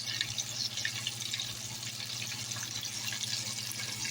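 Hot grease in a frying pan sizzling with a dense, steady crackle of small pops, over a steady low hum.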